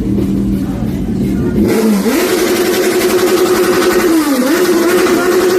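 Car engine revved hard and held at high revs, dipping briefly once in the middle before coming back up, with loud exhaust noise throughout.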